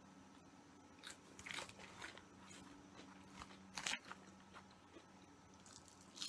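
Close-miked eating: a few crunchy bites and chewing of raw salad vegetables, the loudest crunch about four seconds in, over a faint steady hum.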